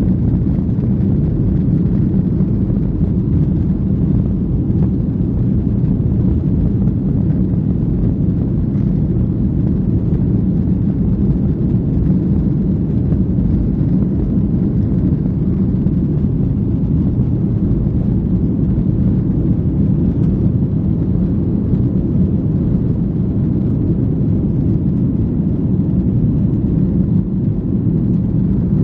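Boeing 737-800's CFM56-7B turbofan engines and the airflow around the fuselage, a loud, steady low rumble heard from inside the cabin.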